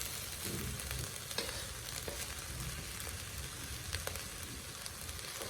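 Fried rice with beef, carrots and spring onion frying in a saucepan: a steady sizzle, with a few light scrapes and clicks of stirring.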